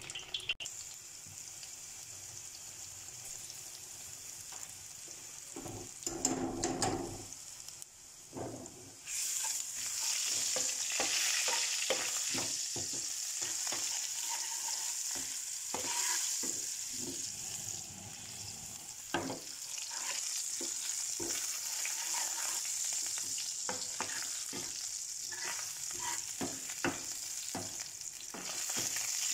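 Chopped pieces frying in hot oil in a pan, stirred with a metal spoon: a steady sizzle, quieter at first and growing loud about nine seconds in, with scattered scrapes and clinks of the spoon against the pan.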